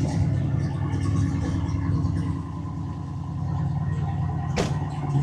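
Car engine idling steadily, with a sharp click or knock about four and a half seconds in.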